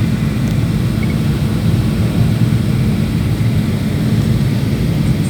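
Steady low drone of an airliner heard from inside the passenger cabin: engine and airflow noise, even and unbroken, as the plane descends to land.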